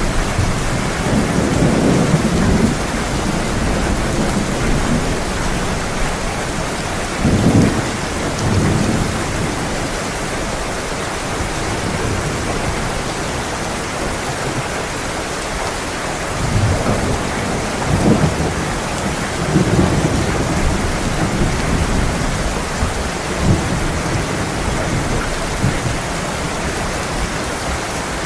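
Heavy rain falling steadily, with low rolls of thunder rumbling up and fading several times.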